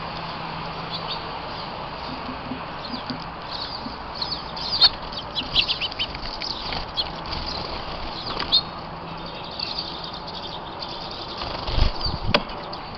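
Small birds calling in quick high chirps, with wings fluttering, over a steady background hiss; a low thump and a sharp click near the end.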